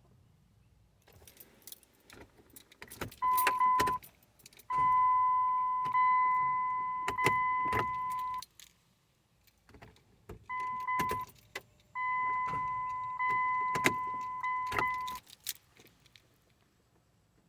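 Attempts to start a 2009 Dodge Journey that won't start. A steady high whine sounds in four stretches, two short and two of about three seconds, with sharp clicks and keys jangling between them. The no-start is blamed on a corroded starter ground.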